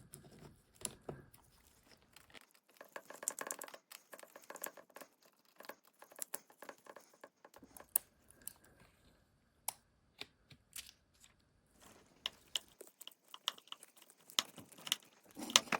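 Irregular small clicks, taps and crinkling from parts being handled, with a denser crinkly stretch about three seconds in.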